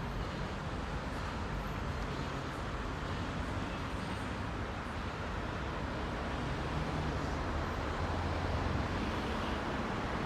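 Heavy rush-hour city road traffic: a steady wash of car engines and tyre noise, with a deeper engine rumble swelling about seven seconds in.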